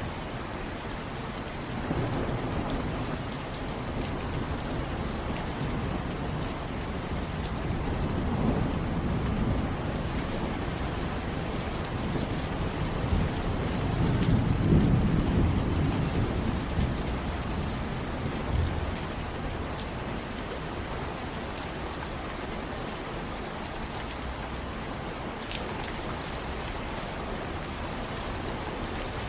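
Steady heavy rain falling, with a low roll of thunder that swells up and peaks about halfway through, then fades back into the rain.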